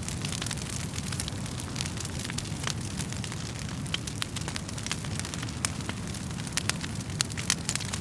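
Wood fire burning in a fireplace: a steady low rush of flames with frequent sharp crackles and pops from the burning logs, a few louder pops near the end.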